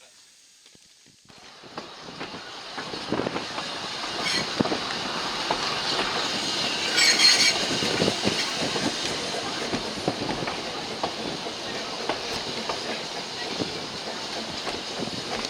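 Narrow-gauge railway carriage running on the track, heard from on board: a steady rumble with frequent wheel clicks and knocks over the rail joints. The rumble builds up after a quiet first second or so, and a brief, louder high-pitched sound comes about seven seconds in.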